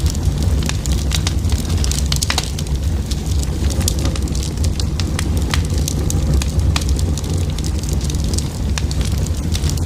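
A burning fire crackling and popping with frequent sharp snaps, over a steady low rumble.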